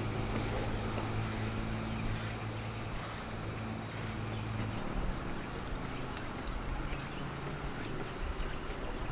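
Insects outdoors: a steady high-pitched trill with short regular chirps, about one and a half a second, over a low hum that fades out about five seconds in.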